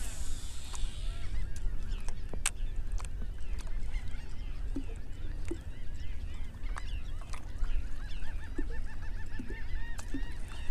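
Birds calling over and over in many short chirps that bend up and down, with a quick run of repeated calls near the end. A steady low rumble lies underneath.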